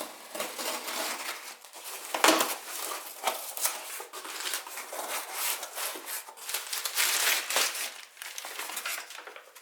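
Parts packaging being opened by hand: irregular crinkling and tearing of wrapping that goes on throughout, with a sharper rip about two seconds in.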